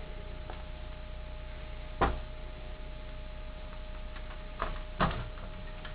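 A few sharp knocks and clicks as a plaster wall casting is handled and worked out of its rubber mold: one about two seconds in, then two close together near the end. A steady hum runs underneath.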